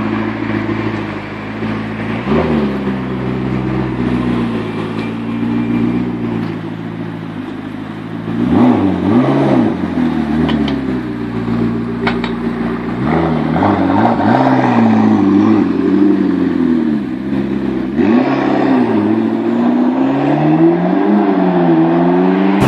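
McLaren MP4-12C's twin-turbo V8 idling and being revved repeatedly in quick throttle blips, the pitch rising and falling with each one. The blips come more often in the second half.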